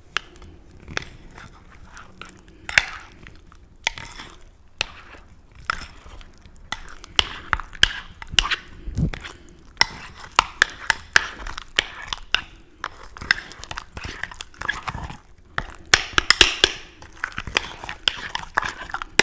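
Close-miked crunching of chips being bitten and chewed: a string of sharp crunches, sparse at first, then quick and dense from about a third of the way in, loudest in a cluster near the end.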